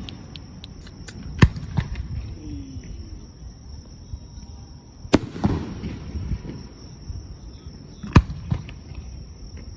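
Aerial fireworks shells bursting three times, a few seconds apart, each sharp bang followed by a low rolling rumble, with a spatter of small crackles after the first.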